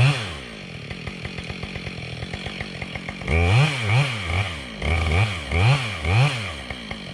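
Two-stroke chainsaw idling, with its throttle blipped once at the start and then in a quick run of about five revs about halfway through. Each rev rises and falls in pitch before it drops back to a ticking idle.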